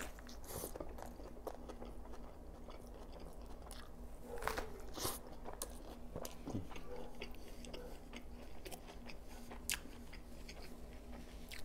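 Close-miked biting and chewing of a McDonald's Double Quarter Pounder dressed with lettuce and tomato: a bite at the start, then wet chewing with many small crisp clicks and smacks.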